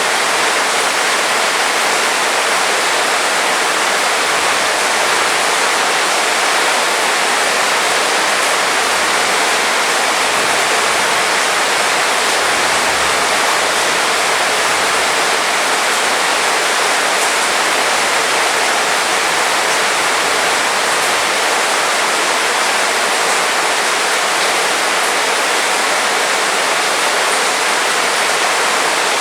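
Heavy rain pouring down in a steady, even hiss, with no letup and no distinct drops or thunder.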